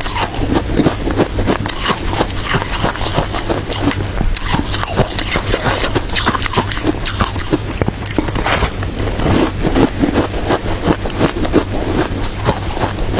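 Close-miked chewing of crunchy shaved ice with matcha: a dense, continuous run of sharp crackling crunches.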